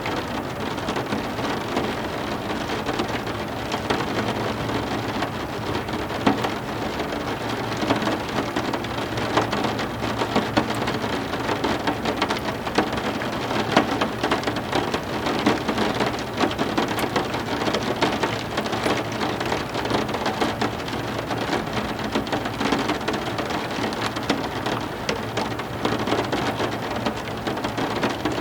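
Heavy rain falling steadily, a dense even hiss speckled with countless sharp individual drop impacts.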